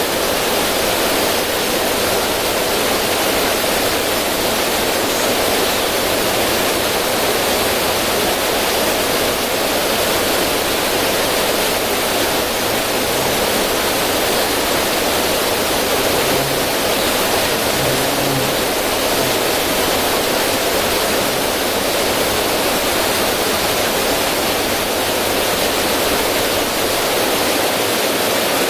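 Steady rush of river water splashing over rocks in a small cascade, an even full-range hiss without pauses.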